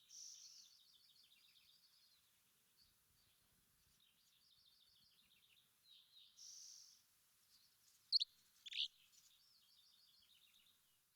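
A songbird singing: a buzzy note, then a long run of rapid twittering, and the phrase comes again about six seconds in. Two loud, sharp, downward-sweeping notes stand out about eight seconds in.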